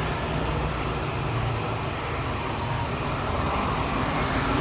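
Steady rumble and hiss of road traffic, without breaks or distinct events.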